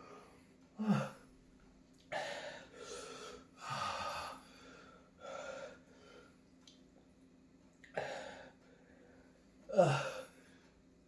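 A man gasping and breathing hard through a burning mouth after eating sixteen bird's eye chillies. The breaths come in irregular puffs, with a short voiced gasp about a second in and a louder one near the end.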